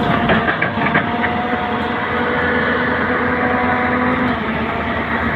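Heavy diesel machinery engine running steadily, with a few sharp clacks in the first second.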